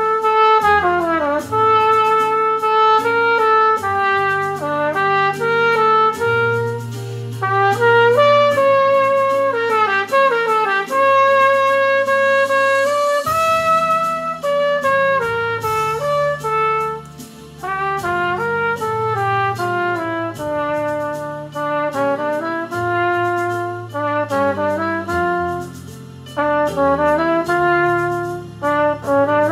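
Yamaha 6345G trumpet playing a melody of quick runs and held notes over a low, sustained accompaniment.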